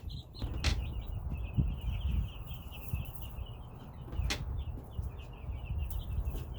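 Cornish Cross broiler chicks peeping in a fast, continuous run of high chirps, over a low rumble of handling noise with a couple of sharp clicks.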